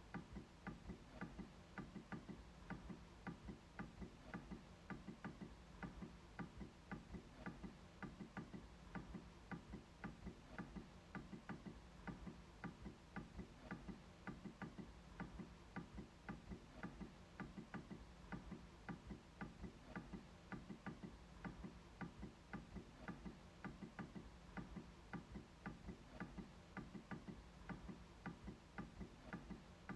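MacBook trackpad clicked over and over in a steady rhythm, faint, about two clicks a second.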